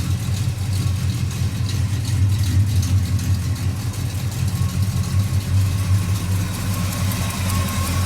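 Ford F-250 pickup engine idling steadily with a low, even rumble and a light rapid ticking over it. The engine still has an exhaust leak.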